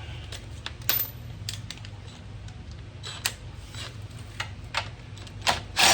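Scattered metallic clicks and clinks of a socket wrench being handled and fitted on a 14 mm bolt. A louder burst of noise about half a second long comes right at the end.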